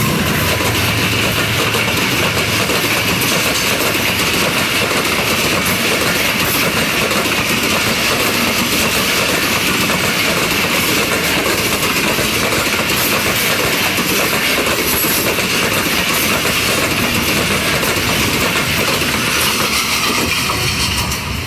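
Passenger train coaches passing close by at speed: a loud, steady noise of the wheels on the track, falling away near the end as the last coach goes past.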